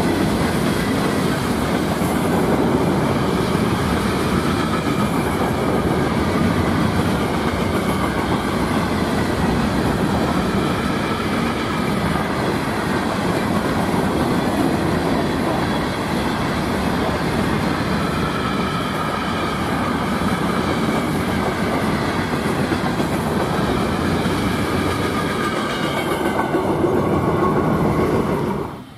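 CSX freight train's hopper cars rolling past, steel wheels running over the rails in a steady, loud rumble with faint high ringing tones above it. The sound cuts off abruptly just before the end.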